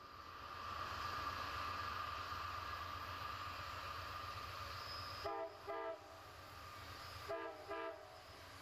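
Train running with a steady rumble, its locomotive horn sounding two short blasts, then two more a couple of seconds later.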